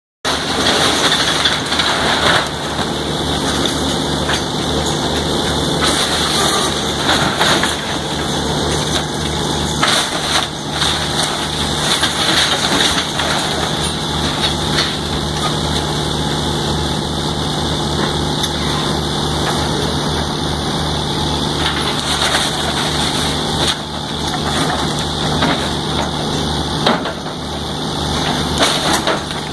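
Heavy demolition machinery's diesel engine running steadily while a building's wood and debris crunch, crack and splinter as it is torn down, with many sharp cracks throughout.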